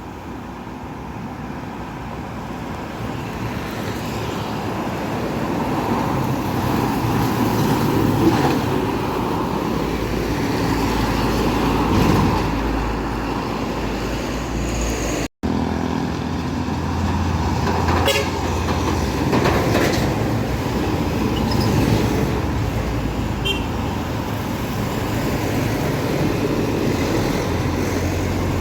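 Heavy road traffic of trucks and buses passing, their diesel engines running and swelling louder over the first several seconds, with a vehicle horn tooting.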